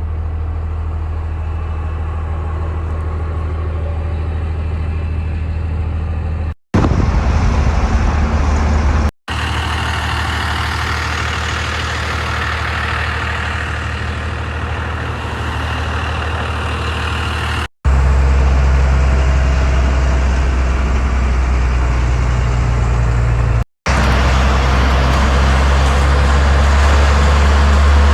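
Old truck driving: a steady low engine drone with road noise. It comes in five short clips joined by abrupt cuts, with the clips in the middle and near the end somewhat louder.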